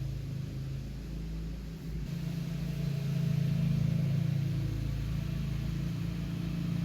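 Steady low engine hum, getting louder about two to three seconds in.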